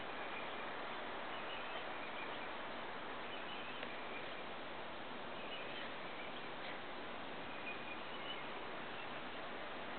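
Steady outdoor hiss with a few faint, short bird chirps every couple of seconds and an occasional small click.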